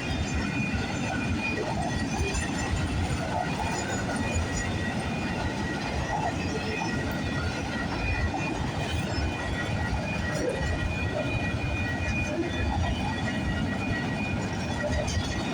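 Freight train cars rolling past on the rails: a steady rumble with a faint, steady high ringing over it.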